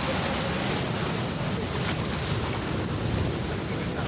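Steady rush of ocean surf with wind blowing on the microphone.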